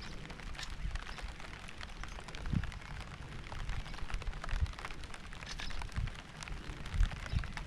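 Rain falling, an even hiss with many separate drop ticks, over an uneven low rumble with occasional soft thumps.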